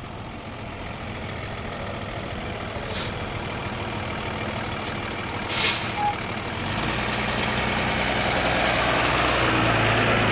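Tow truck running on the road: a steady engine and road noise that builds and grows heavier about two-thirds of the way through, with two short hisses a few seconds apart.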